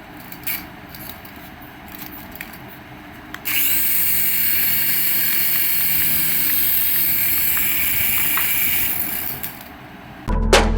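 Small electric motor of a remote-control toy, starting abruptly after a few light clicks, whirring steadily with a high whine for about six seconds, then winding down.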